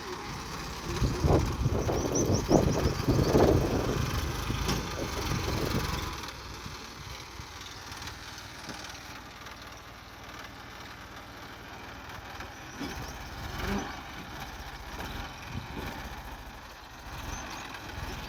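Tractor diesel engine running, loud and labouring for the first several seconds, then dropping to a quieter, steady run.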